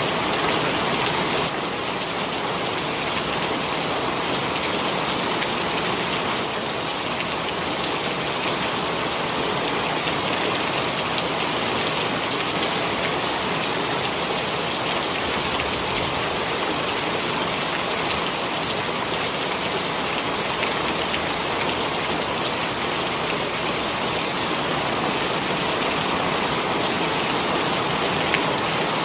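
Heavy rain pouring steadily, a dense even hiss of drops that dips slightly in level about a second and a half in.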